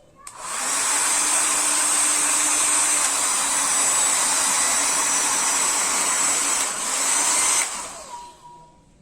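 Philips 1000-watt hair dryer switched on a moment in, its fan motor and rushing airflow running steadily with a faint whine. It is switched off after about seven and a half seconds and winds down. The reassembled dryer is working.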